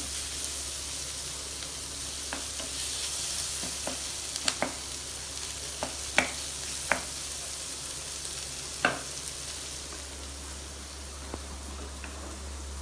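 Chopped tomato and fried onion sizzling in a pot while being stirred and mashed down. A ladle clicks against the pot a handful of times in the middle.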